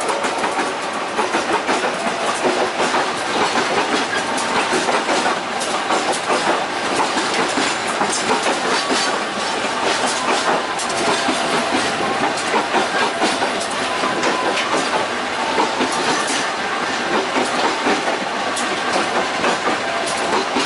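Wheels of a moving local passenger train running on the rails, heard at a carriage doorway: a loud, steady rush of running noise with repeated clacks over the rail joints.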